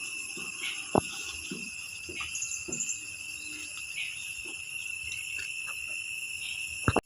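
Steady shrill insect chorus, a continuous high-pitched ringing drone, with a few soft knocks, the sharpest about a second in.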